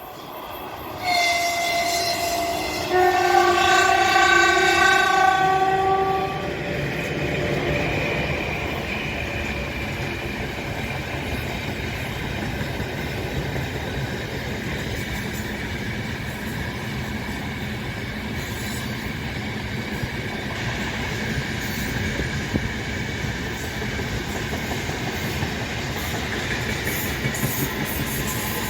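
Horn of a 3ES5K "Ermak" electric locomotive: a short blast about a second in, then a longer, louder blast of several tones together. After it comes the steady rolling noise of its freight train's wagons passing at speed.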